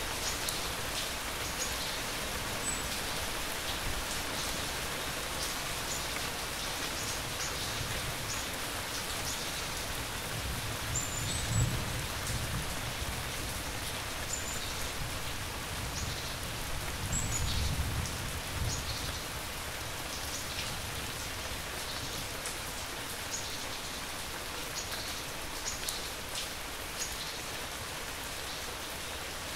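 Steady rain with scattered drips ticking, and two low rolls of thunder, one about a third of the way in and another a little past halfway. A few brief high chirps sound now and then.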